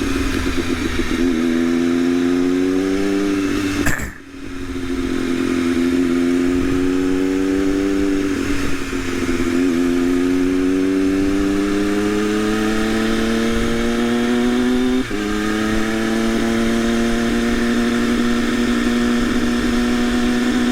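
Triumph Daytona Moto2 inline-three engine, its stock muffler replaced by a link pipe, accelerating under way. Its pitch climbs through each gear and drops at upshifts about 4, 9 and 15 seconds in, then holds steady at cruising speed.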